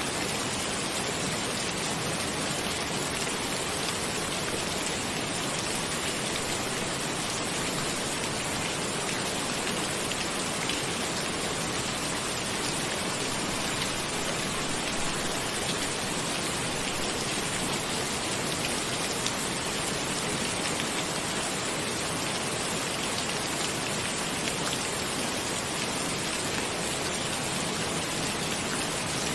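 Steady rain falling, a dense even hiss with fine individual drop patter, unchanging throughout.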